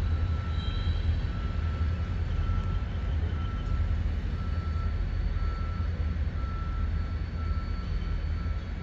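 Steady low rumble of EMD SD40-2 diesel locomotives and their train passing. A high tone repeats a little faster than once a second over it.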